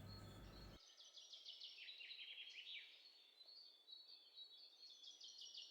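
Faint bird chirping: quick runs of short, falling chirps that start about a second in.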